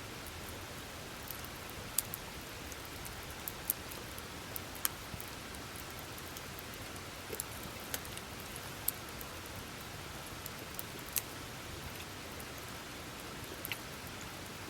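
Wood campfire burning, with a steady hiss and irregular sharp crackles and pops, roughly one every second.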